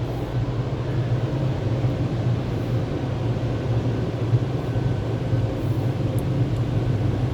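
Touchless automatic car wash running, heard from inside the car: a steady rushing noise over a low hum.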